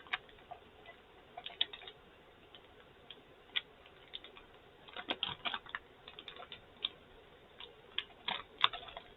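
Mouth sounds of someone chewing a gummy bear: scattered soft clicks and smacks at an uneven pace, bunched in a few short runs.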